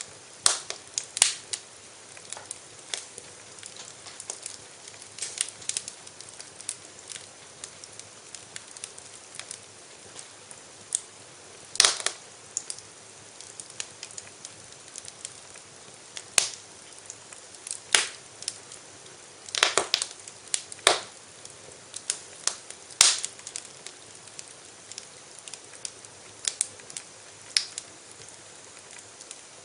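Wood fire crackling in a fireplace: a low steady hiss with irregular sharp pops and snaps, the loudest a cluster around two-thirds of the way through.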